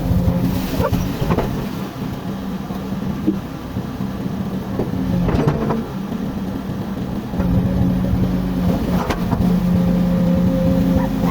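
Komatsu excavator's diesel engine running under load with a steady drone, easing off for a few seconds in the middle and getting louder again about seven seconds in. A few sharp knocks break through, about four in all.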